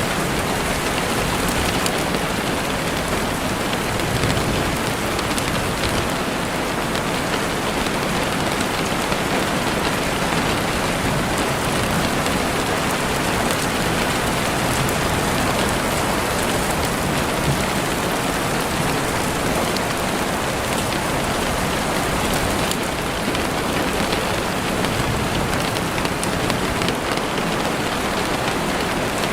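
Heavy rain falling steadily on a window, a dense even hiss of many drops with no breaks.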